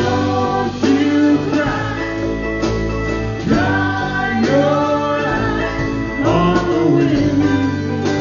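A band playing a song live: a gliding melody, sung or played, over sustained guitar chords.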